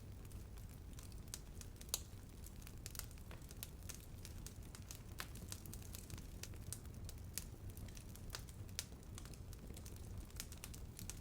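Bonfire burning, with irregular sharp crackles and pops from the wood over a low steady rumble of the flames; the loudest pop comes about two seconds in.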